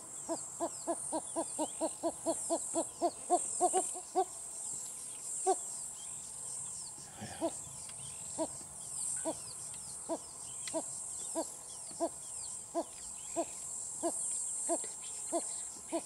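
A bird calling a series of short, low, hollow notes: a quick run of about four a second for the first four seconds, then the same note repeated more slowly, about one and a half a second. A steady, high insect chorus of cicadas or crickets runs underneath.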